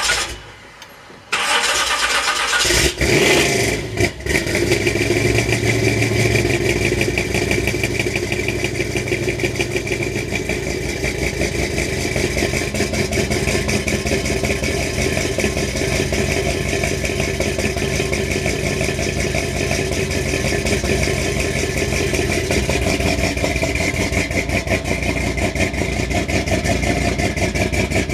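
Pontiac 455 big-block V8 in a 1965 Pontiac Tempest drag car being started: the starter cranks it over and it catches about four seconds in. It then runs steadily, a little higher for a few seconds before settling to idle.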